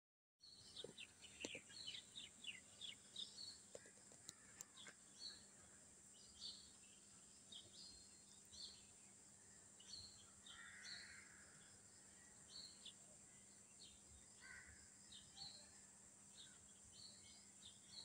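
Faint birds chirping: many short calls, busiest in the first few seconds and scattered after, over a steady faint high hiss.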